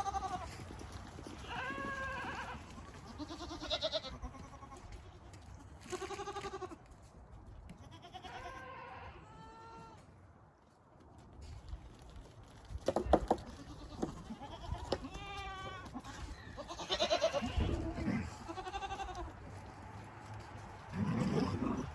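Nubian-type goats bleating over and over, a dozen or so separate calls at different pitches from several animals, as they wait to be given grain. A few sharp knocks come in about two-thirds of the way through.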